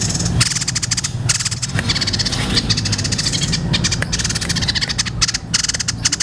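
White-breasted babbler (tepus dada putih) singing: very rapid chattering, rattling trills in runs broken by short gaps, over a steady low hum.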